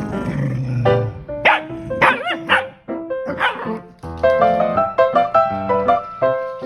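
A dog barks and yips a few times over background music, with one wavering, whining cry about two seconds in.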